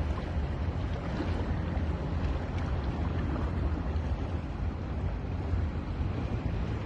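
Steady wash of ocean surf on a beach, with wind on the microphone adding a low rumble.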